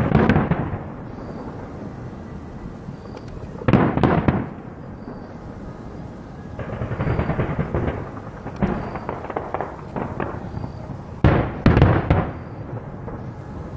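Fireworks display: aerial shells bursting with loud booms, one right at the start, one at about four seconds and two close together near the end. Between them comes a run of smaller crackling pops.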